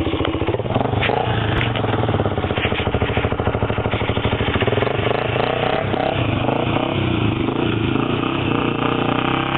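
Honda 400EX ATV's single-cylinder four-stroke engine running through a modified exhaust, its engine speed rising and falling.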